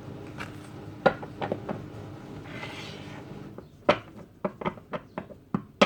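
Tarot cards being handled on a table: a series of light, sharp taps and clicks as cards are flipped and set down, with a brief rustle of cards sliding a little before the middle.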